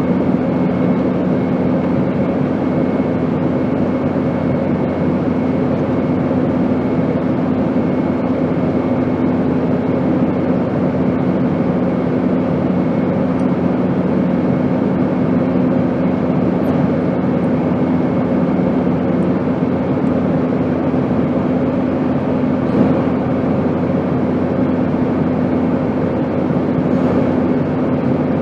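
Airplane noise: a loud, unbroken rushing drone with a steady low hum running under it.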